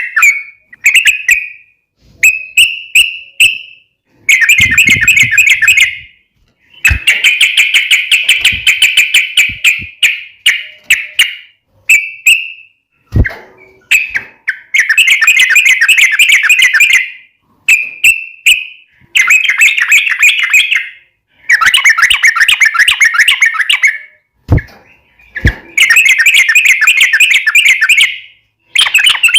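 Yellow-vented bulbul (trucuk) singing in its full, energetic song: repeated bursts of rapid chattering notes, each phrase one to three seconds long with short pauses between. There are a few soft knocks in between.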